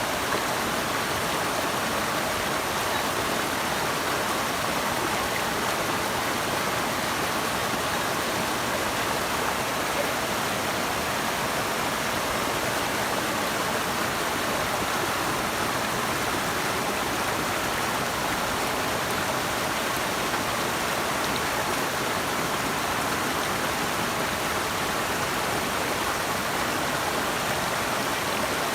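Rushing water running steadily: an even, unbroken hiss with no pauses or separate events.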